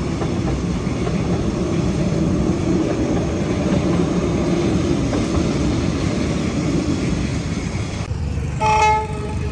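A train hauled by a D19E diesel-electric locomotive running past with a steady rumble. About eight seconds in the rumble cuts off, and a short horn toot of under half a second sounds.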